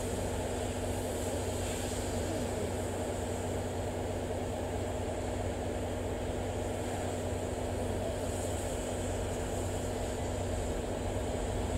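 Steady low hum and rumble of a steam locomotive and brake van moving slowly along a depot track, with no distinct exhaust beats.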